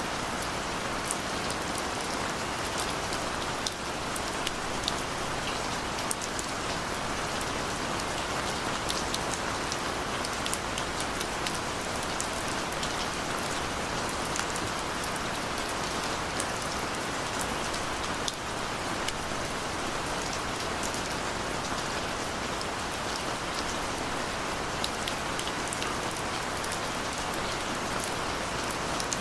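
Steady rain falling on a surface, with the small ticks of individual drops scattered through it.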